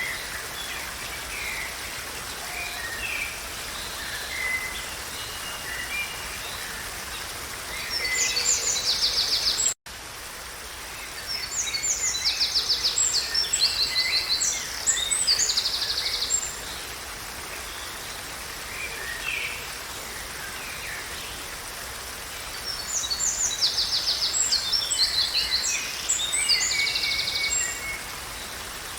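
Songbirds singing over a steady background hiss: scattered short chirps, and three spells of fast, high trilled song lasting several seconds each. The sound drops out for a split second just under ten seconds in.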